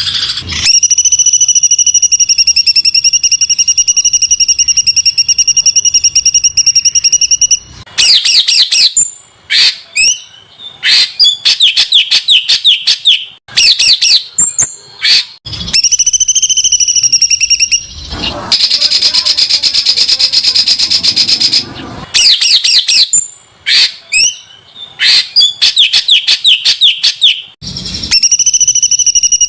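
Songbird singing harsh, very dense 'tembakan' bursts: long buzzy trills held at one pitch for several seconds, alternating with quick runs of sharp rising and falling notes.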